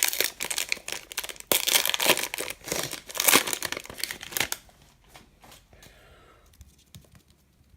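Foil wrapper of a 2016 Donruss Optic fat pack of baseball cards crinkling and tearing as it is ripped open, loud and crackly for about four and a half seconds, then only faint rustles and ticks as the cards are handled.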